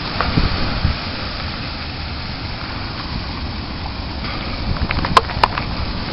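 Blizzard wind blowing across the microphone: a steady rushing noise with gusty low rumble. Two sharp clicks come just after five seconds in.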